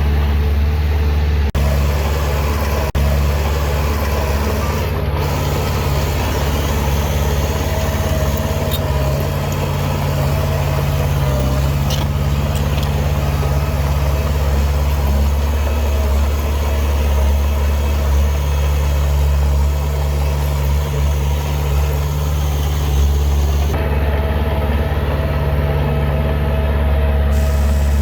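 Heavy diesel engine of earthmoving machinery running steadily, a deep even drone.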